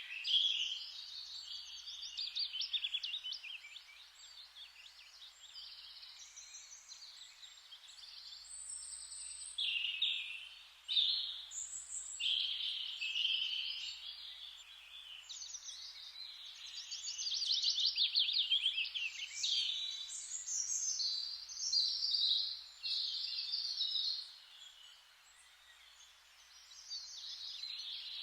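Forest ambience of several songbirds singing: overlapping high trills and chirping phrases that come and go, over a faint steady hiss.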